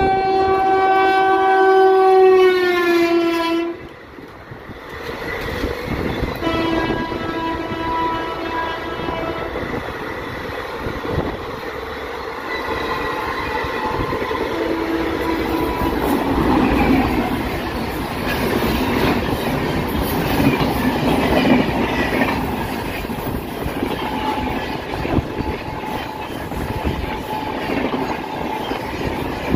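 Locomotive horns sounding: a long blast whose pitch drops as it goes by, then several more blasts. After that come two passenger trains running past on parallel tracks, coaches clattering over the rail joints.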